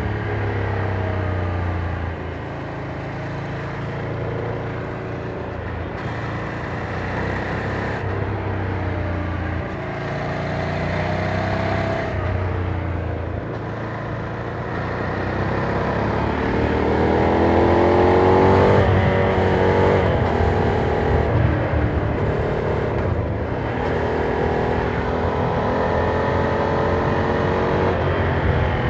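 Ducati Monster 797's air-cooled V-twin on its quiet stock exhaust, heard from the rider's back while riding: the revs rise and fall through the gears, with the hardest pull about two-thirds of the way in, cut off sharply by a shift.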